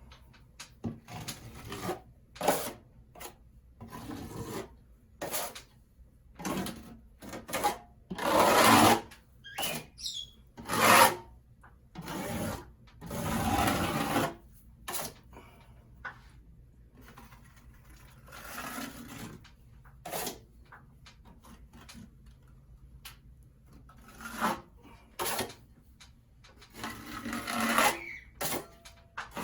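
A hand tool rasping against a ceiling surface in irregular strokes, some short and some about a second long, with pauses between them.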